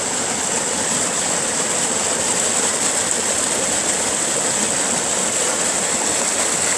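Mountain stream water rushing steadily over stones, an even hiss.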